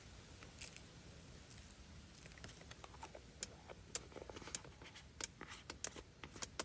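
Faint rustling of food packaging being handled while spices go into the mix. There are irregular small clicks that grow sharper and more frequent from about three seconds in.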